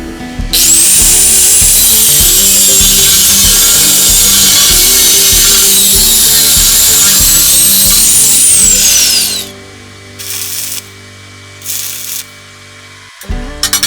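A handheld power tool runs hard for about nine seconds with a high motor whine that sags in pitch and recovers, then winds down as it is switched off. A few fainter, shorter bursts follow.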